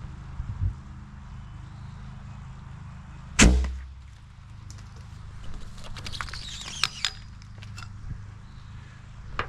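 A single heavy, sharp thump about three and a half seconds in, with scattered small clicks and knocks later on.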